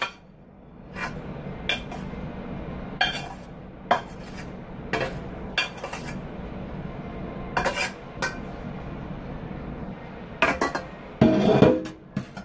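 A metal spoon scraping and clinking against a pan as the last bits of cooked vegetables are spooned out, in scattered short clinks with a louder clatter near the end.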